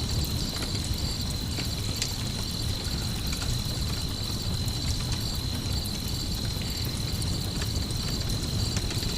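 Layered night ambience: crickets chirring in a steady high drone over the low rumble of a campfire, with a few faint crackles.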